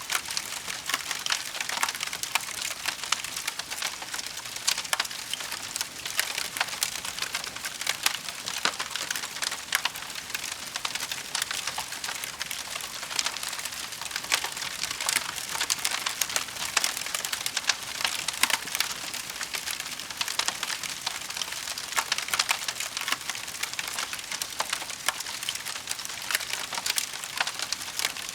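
Wood fire burning in a fireplace, crackling and popping continuously over a steady hiss, with many small sharp snaps scattered through.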